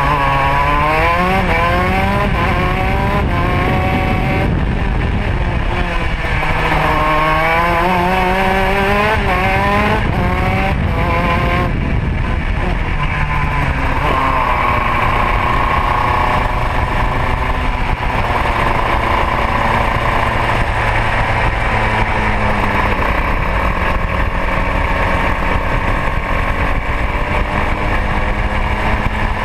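Modena two-stroke kart engine at racing revs: the pitch dips and climbs several times in the first half as it comes off and back onto the throttle, then holds fairly steady at high revs from about halfway.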